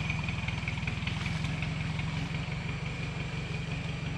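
Toyota Land Cruiser 70-series diesel engine idling steadily, a fast even low chugging.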